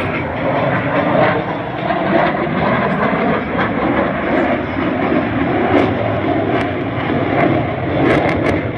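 Jet noise from an RCAF CF-18 Hornet's twin General Electric F404 turbofans during a display manoeuvre: a loud, steady rush that swells and eases.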